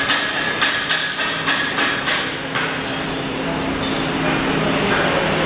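Irregular sharp knocks of metalwork over the first two and a half seconds, over a steady loud noise with a low hum.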